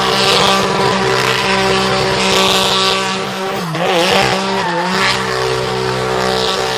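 Drift car engine held at high, steady revs while the tyres squeal in a slide. The revs drop and wobble briefly around the middle, then climb back to the same steady pitch.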